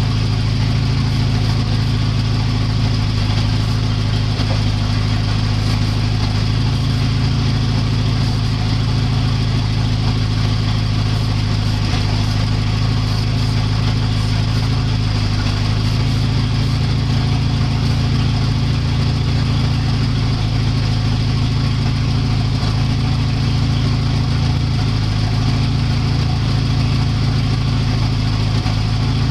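Volvo 740 engine idling steadily.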